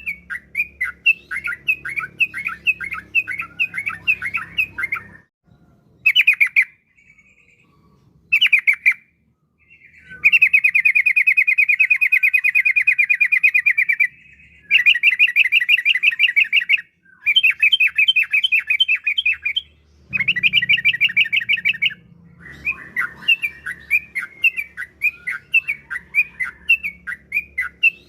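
Yellow-vented bulbul (trucukan) singing: quick, repeated bubbly notes, a pause of a few seconds, then long rapid rolling trills in the middle, and the quick repeated notes again toward the end.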